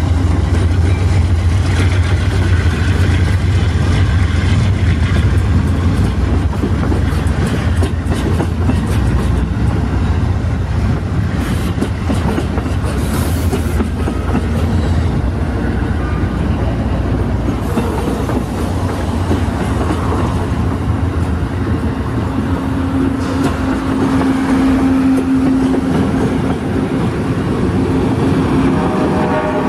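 Amtrak passenger train rolling past, a steady low rumble with the wheels clicking over the rail joints.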